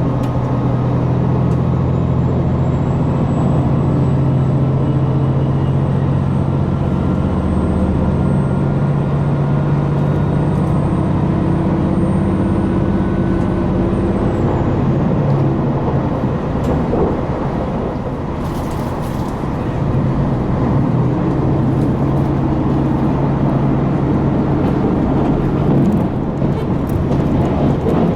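Diesel engine of a JR Hokkaido KiHa 261 series DMU running under power, heard from inside the passenger cabin, with a steady low drone and a faint high whine. The engine sound eases briefly past the middle, then picks up again.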